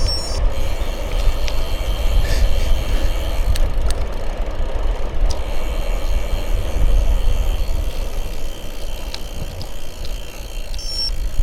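Wind buffeting the microphone of a moving bicycle, with a heavy uneven rumble and the hiss of tyres rolling on the road. A few light clicks and rattles from the bike come through.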